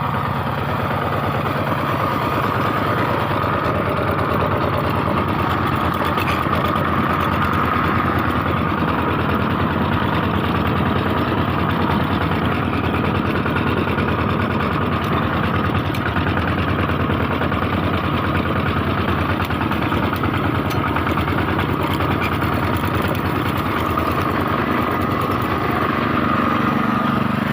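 Small engine of a motorized herbicide sprayer running steadily at an even speed.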